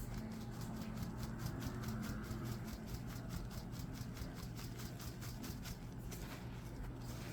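Crunchy reforms being crushed: fine, rapid crackling clicks, several a second, over a steady low hum.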